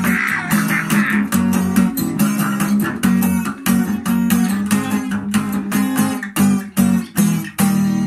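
Guitar strummed in a steady rhythm of chords, about three strokes a second, with a last chord near the end left to ring out.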